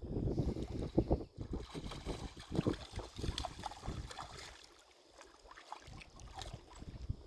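Water splashing and sloshing as a dog moves and lunges through shallow seawater after a crab. Irregular splashes, busiest in the first four seconds, then quieter.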